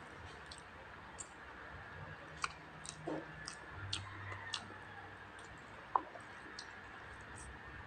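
Close-miked eating: chewing with wet mouth clicks and lip smacks scattered irregularly, the sharpest click about six seconds in.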